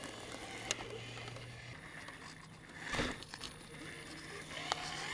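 Electric motor of a 1/10 scale RC crawler truck humming steadily, stopping after about a second and a half, while its tyres and chassis crunch and click over rocks and ground litter, with the loudest crunch about three seconds in.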